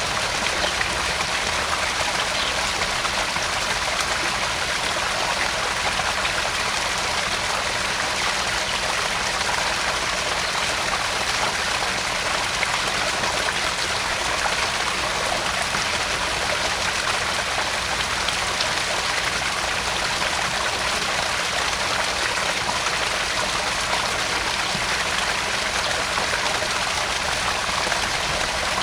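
Garden pond waterfall: water splashing and trickling steadily into the pond, an even, unchanging splash.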